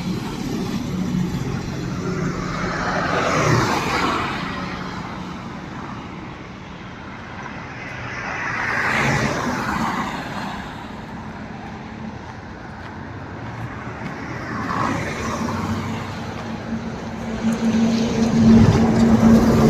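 Tata BS3 bus diesel engine running steadily on the road with tyre and road noise, which swells and fades three times. Near the end the engine note grows louder and steadier, as under more load.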